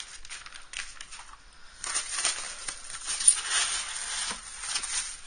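Packaging rustling and small parts clicking as drill press components are unpacked by hand, with a denser rustle starting about two seconds in.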